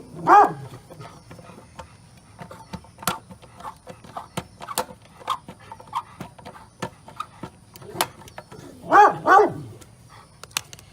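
A dog barking: one bark about half a second in, then two quick barks near the end. Between them come scattered light clicks and taps.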